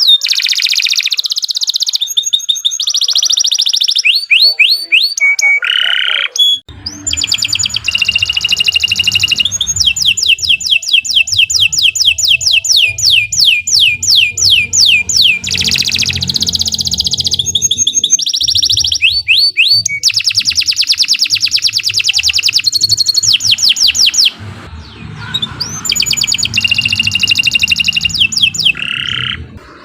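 Domestic canary singing a long, continuous song of fast repeated trills and rolls, changing from one trill to the next every second or two, over a low hum.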